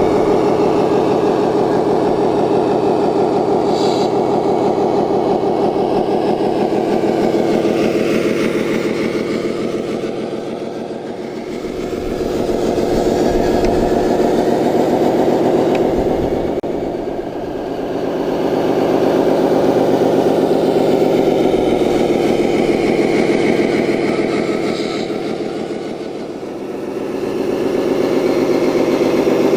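Simulated diesel engine sound from an RC scale model's sound unit, running continuously and easing off three times before building up again.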